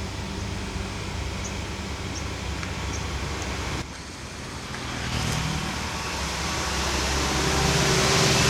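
Motor vehicle engine running steadily. After a sudden break about four seconds in, engine and road noise build up louder toward the end.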